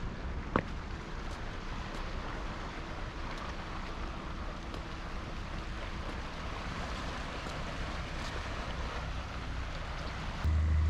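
Steady harbourside noise of water and wind, with a low rumble that gets sharply louder near the end.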